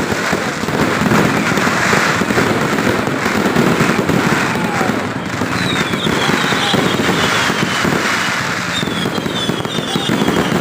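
Fireworks display: a dense, continuous crackle of bursts and bangs, with several whistles gliding down in pitch in the second half.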